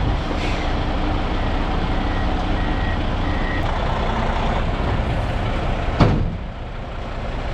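Heavily loaded diesel dump truck's engine running steadily, with a couple of faint backup-alarm beeps a few seconds in and a sudden sharp noise about six seconds in.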